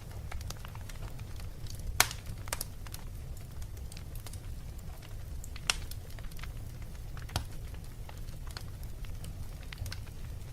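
Fire crackling in a fireplace: scattered sharp pops over a steady low rumble, the loudest pop about two seconds in.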